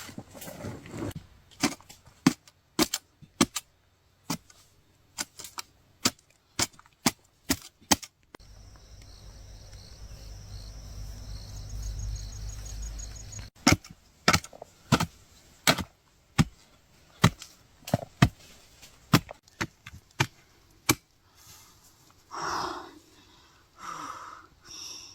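A hand digging tool chopping into the ground in repeated sharp strikes, about one to two a second. In the middle the strikes stop for about five seconds and there is a low rumble, then the chopping resumes.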